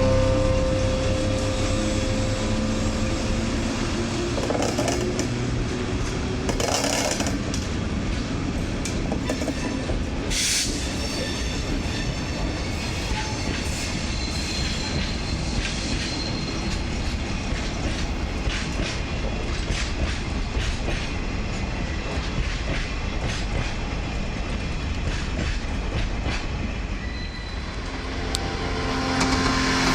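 Freight train rolling past, its wagon wheels clattering along the rails over a steady rumble, with two brief sharp wheel squeals, about 7 and 10 seconds in.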